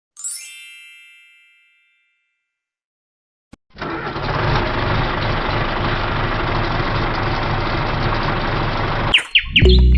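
A single chime rings and fades. After a short silence and a click, an engine runs steadily for about five seconds, then cuts off suddenly and a quick whistling glide follows.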